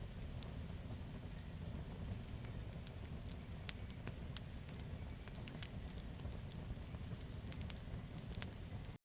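Campfire burning, with frequent sharp crackles and pops over a steady low rumble of the flames. The sound cuts out for an instant near the end.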